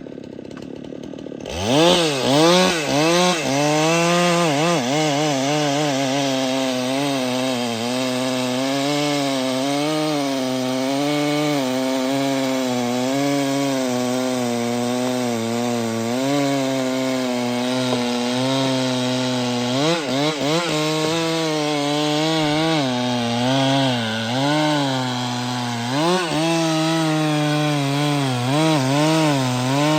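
Chainsaw cutting wood: the engine comes in sharply about a second and a half in and runs hard, its pitch wavering up and down under load, with quick rev-ups about twenty and twenty-six seconds in.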